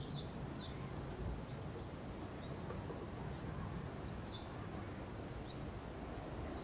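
Faint chirps of small birds: short, high notes that fall in pitch, a few near the start and a few scattered later, over a steady low hum of room noise.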